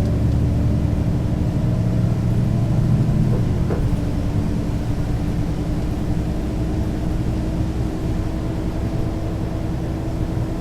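Mercedes-Benz O 530 G Citaro articulated bus under way, its engine and ZF gearbox running. The heavy low engine drone eases about four seconds in, leaving a steady whine over a lighter drone.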